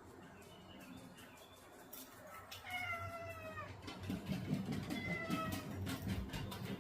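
A domestic cat meowing twice: a drawn-out, slightly falling meow about two and a half seconds in, then a shorter one about five seconds in.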